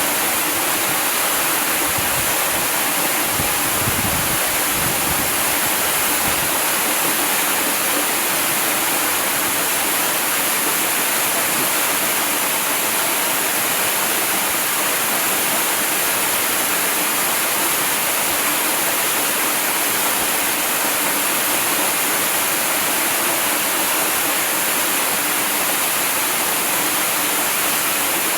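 Waterfall rushing in a steady, dense hiss, strongest in the high range, with some low rumbling a few seconds in.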